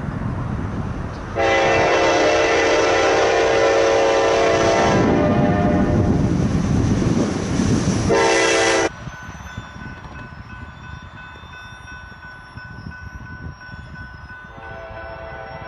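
Diesel locomotive air horn sounding a long blast and then a short one over the rumble of a moving train. Then the sound cuts off abruptly to a much quieter background with faint steady tones.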